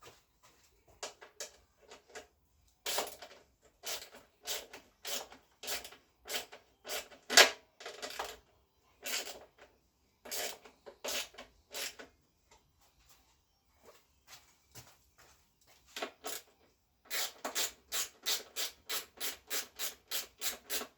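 Repeated short rubbing or scraping strokes of hand work on motorcycle parts, about two a second with pauses, then a faster run of about five a second near the end.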